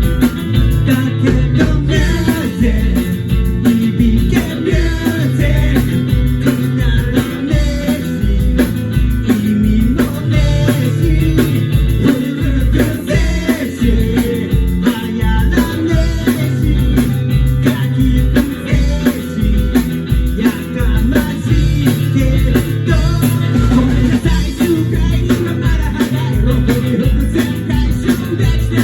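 Live rock and roll band playing loud: electric guitar, bass and a drum kit over a steady, driving beat.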